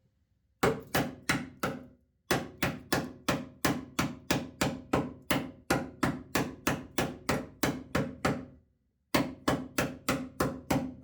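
Hammer blows on the sheet-metal sill of a Mazda MX-5, about three a second with a brief metallic ring after each. They come in three runs split by two short pauses, the middle run the longest.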